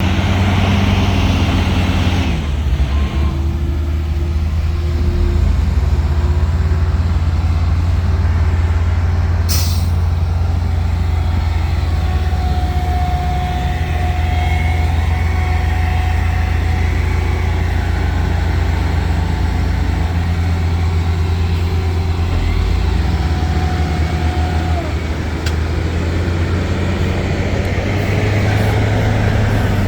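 Heavy diesel earthmoving machinery running steadily with a deep engine drone. There is a short sharp hiss about ten seconds in, and a steady whine from about twelve seconds that drops away near twenty-five seconds.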